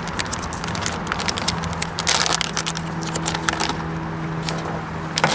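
A boat motor running with a steady hum that strengthens about a second and a half in, under irregular clicks and rattles.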